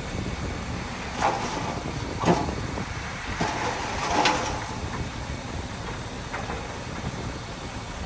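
Heavy earthmoving machinery running with a steady diesel rumble, with short clanks and scrapes about one, two and four seconds in.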